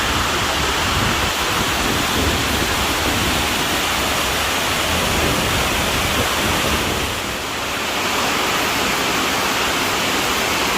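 Waterfall's water pouring down over rock: a loud, steady rush that eases slightly for a moment about seven seconds in.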